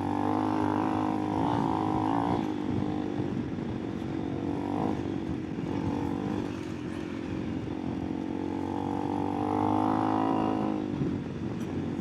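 Honda CRF300 Rally's single-cylinder engine running under way, its revs rising and easing off: higher over the first two seconds and again near the end, lower in between.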